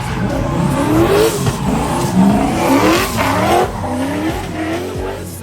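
Drift car engine revving in repeated rising surges as the throttle is worked, with tyres squealing and skidding.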